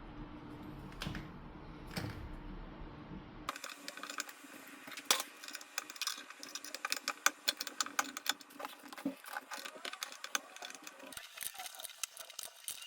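A steady low mechanical hum with two sharp clicks. About three and a half seconds in, it breaks off abruptly into fast, irregular mechanical clicking and rattling.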